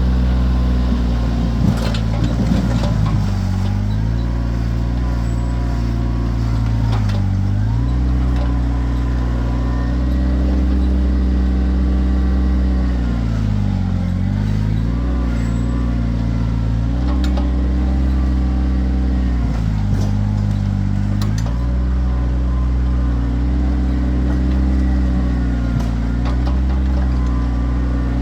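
Kioti tractor's diesel engine running steadily, its pitch dipping and recovering four or five times as it bogs under load while digging, with a few sharp knocks.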